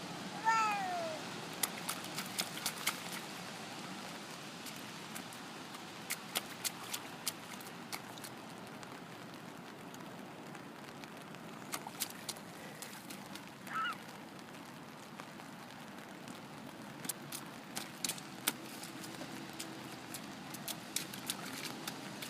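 A small child gives a short squeal that falls in pitch, followed by scattered light, sharp splashes and taps of stamping in a puddle. A second brief squeal comes about 14 seconds in.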